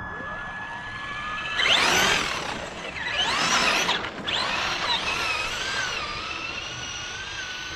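Electric RC trucks' motors and gears whining, the pitch sweeping up and falling back as they speed up and slow down. The whine is loudest about two and three and a half seconds in, then settles into a steadier warbling whine.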